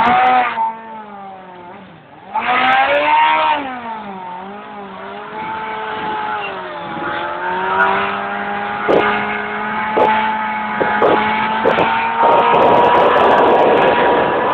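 Motorcycle engine revving. A sharp rev about two seconds in swings up and down in pitch, then a steadier note climbs slowly, with a few sharp cracks. It gets louder and rougher near the end.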